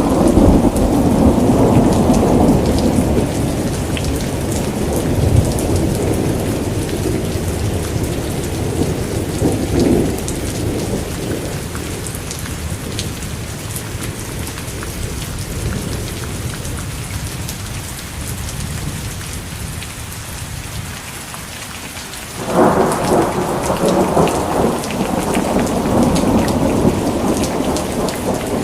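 Steady rain falling, with rolls of thunder. A rumble dies away over the first few seconds, and about 22 seconds in a sudden peal of thunder breaks out and rolls on through the end.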